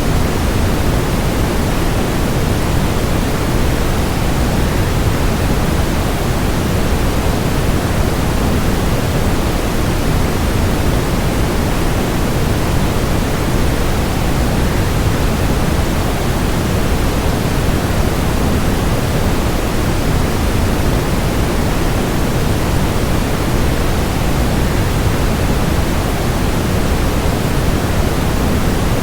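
Waterfall rushing, blended with steady white noise: an even, unchanging wash of noise, heaviest in the low end.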